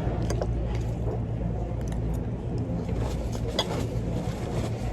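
Restaurant background sound: a steady low hum with scattered short clicks and light clatter.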